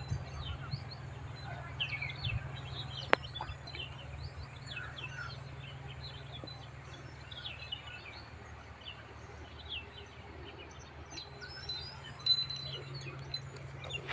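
Small birds chirping in many short, quick calls, over a steady low rumble, with a single sharp click about three seconds in.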